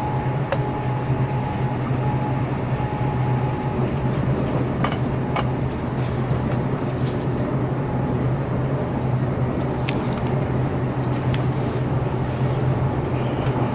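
Interior running noise of a Class 800 intercity train at speed: a steady low hum with rumble from the track, and a few faint clicks.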